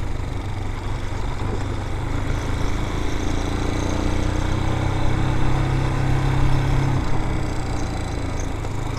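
Vitacci BSR Raven 250 dirt bike's air-cooled 250 cc engine running at low, steady revs, with a slight rise and fall in pitch midway.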